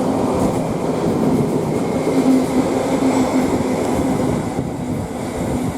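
Long GBRF intermodal freight train's wagons rolling past on the rails: a steady rumble of wheels on track, easing slightly near the end as the train draws away.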